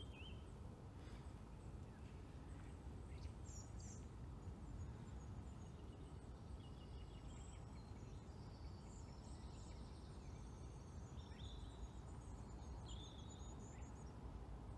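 Small birds chirping and trilling on and off, with short high calls busiest in the second half, over a steady low background rumble.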